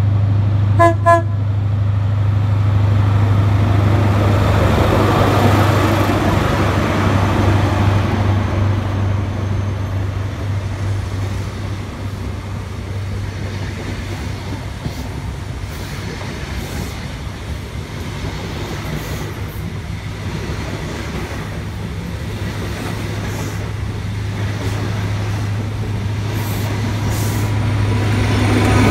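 A passenger train's horn sounds a short toot about a second in. The train then runs past close by with a steady low rumble and rushing wheel noise, plus faint clicks over the rail joints. The rush swells again near the end.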